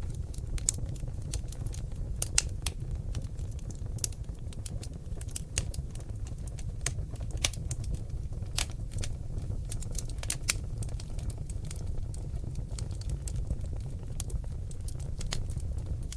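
Wood fire burning in a fireplace: seasoned oak logs crackling and popping in irregular sharp snaps over a steady low rumble of the flames.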